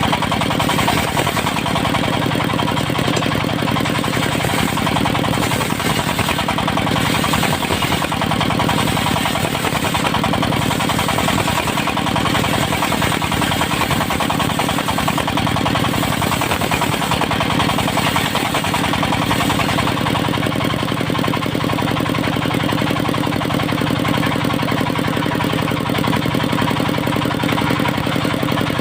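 Engine of a portable circular-saw sawmill running steadily, its sound a little duller from about twenty seconds in.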